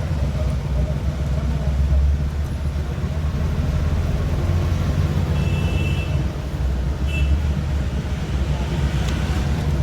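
A steady low mechanical rumble, with two brief faint high tones about halfway through.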